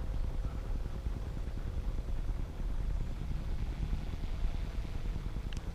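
Wind rumbling on the microphone, with a faint steady hum from a Yuneec Q500+ quadcopter's motors and propellers in flight.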